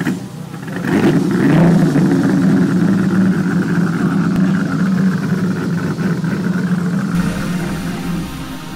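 1957 Ferrari Testa Rossa's 3.0-litre V12 running, loudest about a second in and then holding steady. Electronic music fades in over it near the end.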